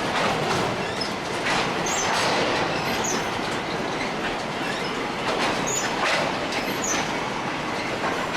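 Freight train cars rolling past, the wheels clacking over rail joints about once a second, with a few faint, brief high-pitched wheel squeals.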